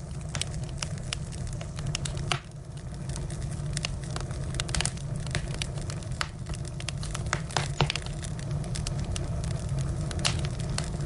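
Firewood burning, crackling with frequent sharp, irregular pops and snaps over a steady low rumble.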